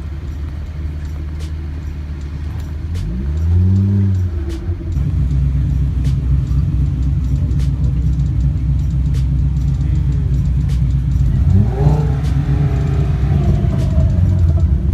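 Car engines rumbling as cars drive off, with an engine revved up and back down twice: once about three seconds in and again near the end.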